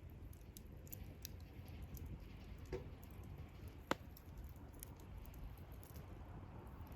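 Wood campfire crackling softly: scattered small pops and ticks over a low steady rumble, with one sharper pop about four seconds in.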